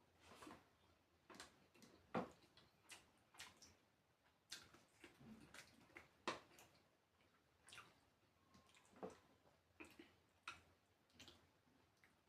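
Faint, irregular wet smacks and clicks of someone chewing food, about one or two a second.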